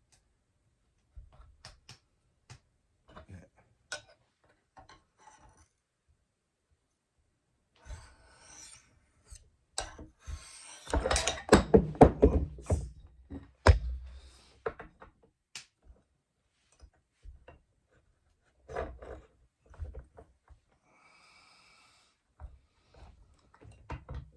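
Steel knife blade scraping against a ceramic sharpening rod in strokes, with clicks and knocks of handling; the strokes come thickest and loudest in the middle.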